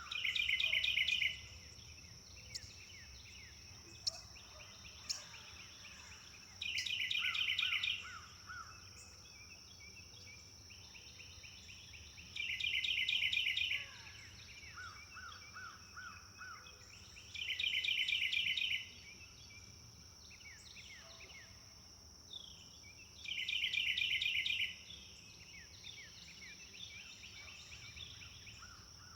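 Songbird singing a fast, rapidly repeated trilled phrase about every five and a half seconds, five times, with softer calls and a short lower trill of four or five notes in between. A steady high-pitched drone runs underneath.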